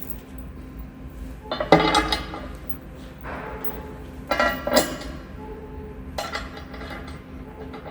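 Steel parts and tools clanking and rattling as they are handled, with two louder bursts of ringing clatter about two and five seconds in, over a steady low hum.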